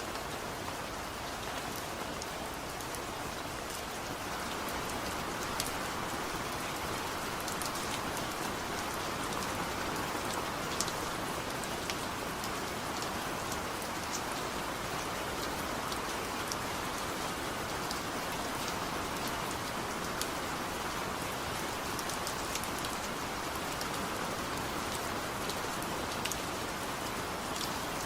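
Steady rain falling, a constant even hiss with scattered sharp drop ticks and no thunder.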